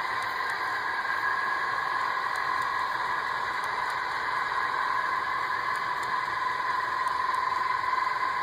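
HO-scale Union Pacific GEVO model locomotives running under LokSound decoders, their small onboard speakers playing a steady GE diesel engine sound over the hum of the moving train.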